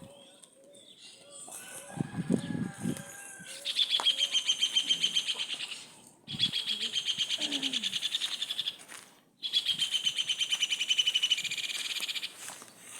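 A bird singing a rapid trill in three long phrases of about two and a half seconds each, each dropping slightly in pitch, with a short low noise about two seconds in before the first phrase.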